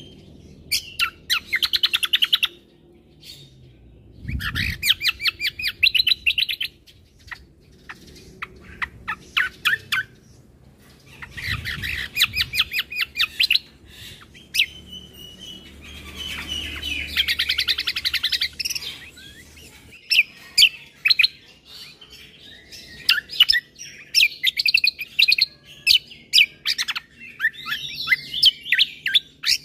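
Kecial kombo (cucak kombo) songbird singing its full, varied song. Fast trilling bouts of a second or two alternate with sharp single chirps and short whistled phrases, and the phrases crowd together in the second half.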